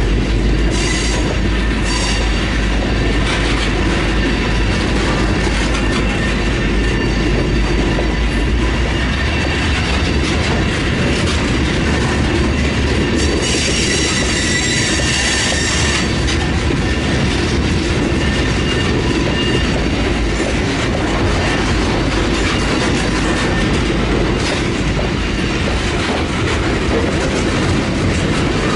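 Freight train of covered hopper cars rolling past: a steady rumble of wheels on rail with clicking over the rail joints. A brief high-pitched wheel squeal stands out for a couple of seconds about halfway through.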